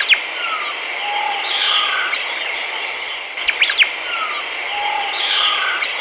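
Outdoor nature ambience: short sharp bird chirps and a few brief whistled notes over a steady high hiss. The same few-second stretch plays twice, as in a looped ambience track.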